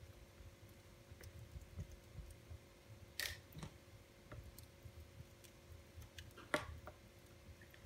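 Wood fire in a fireplace crackling, with scattered small ticks and two louder pops, about three seconds in and about six and a half seconds in, over a low flutter of the flames.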